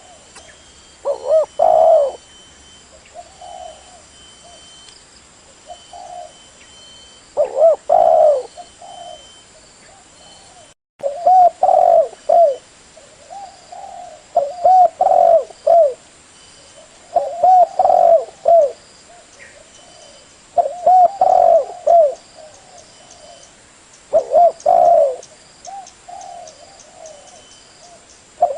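Spotted dove cooing: short phrases of several low coos, repeated every three or four seconds, with a brief break in the sound about eleven seconds in.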